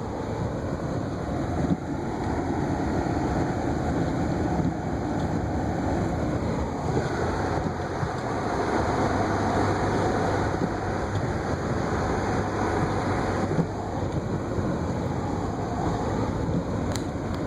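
A car driving on snow-covered streets: the steady rumble of tyres and engine, even throughout.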